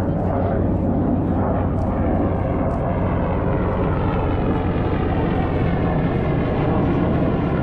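Military aircraft flying past, a loud, steady engine noise with a slowly shifting sweep in its tone as it goes by.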